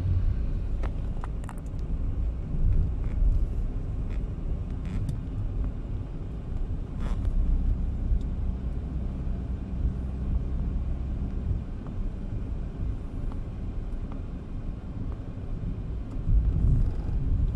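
Steady low rumble of a motor vehicle driving, with a few faint clicks and knocks in the first half.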